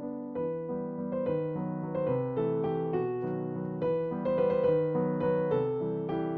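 Background piano music: a calm melody of notes played one after another.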